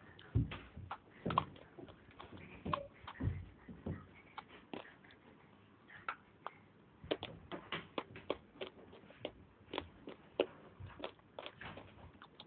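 Close-up biting and chewing of hard white clay bars: irregular sharp crunches and clicks, with a short lull about halfway through.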